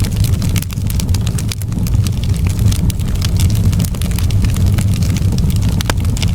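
Wood fire crackling in a fireplace: a dense run of sharp pops and snaps over a steady low rumble of the burning fire.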